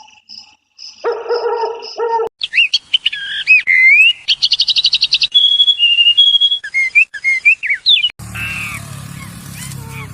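Songbird singing: varied whistled phrases with sliding notes and a fast trill, after a short, lower animal call about a second in. Near the end it cuts to a different animal clip with a low hum underneath.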